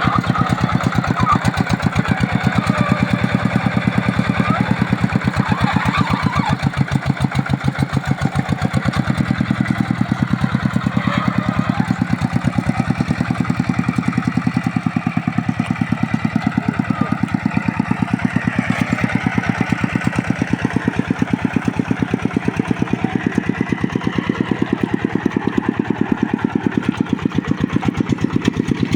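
Two-wheel hand tractor's single-cylinder diesel engine running steadily, with an even, rapid chug of firing beats.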